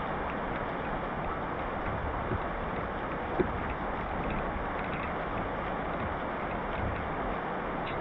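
Heavy rain falling steadily, with a few sharper drop taps standing out, the loudest about three and a half seconds in.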